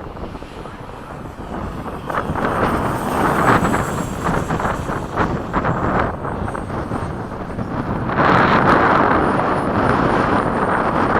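70 mm electric ducted fan of an FMS F/A-18 RC jet in flight: a rushing sound with a thin high whine. It grows louder twice as the jet passes, over wind buffeting the microphone.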